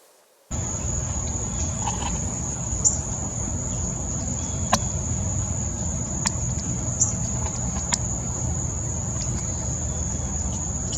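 Backyard ambience that cuts in abruptly: a steady high-pitched insect chorus over a low rumble, with a few sharp clicks.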